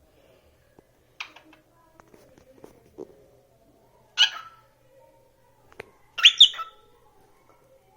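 A pet bird calling: a faint short call about a second in, a loud sharp call about four seconds in, and a louder double call near six seconds.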